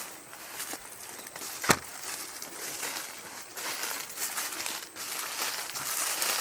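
Footsteps crunching and rustling through dry leaves and twigs on a forest floor, with one sharp crack a little under two seconds in.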